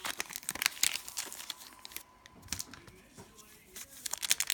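Cellophane wrapper of a basketball card pack crinkling and tearing as it is handled and opened: a dense run of sharp crackles for about two seconds, thinning to scattered crackles, then picking up again near the end.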